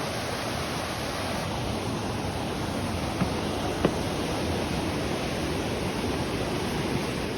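Steady rushing water, a constant even roar, with two short sharp clicks a little past the middle.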